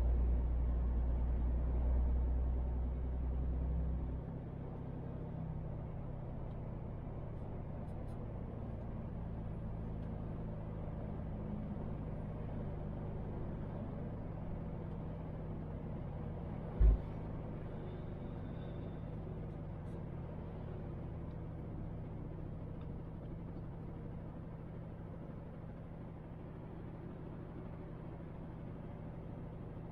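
A MAN TGX truck's diesel engine running while driving, a steady low drone whose deepest part drops away about four seconds in. A single short, sharp thump about seventeen seconds in.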